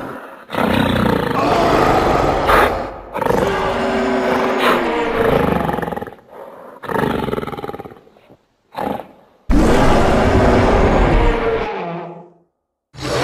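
Giant ape-monster roar sound effects: about five separate loud, rough roars with short gaps between them, one of them very short.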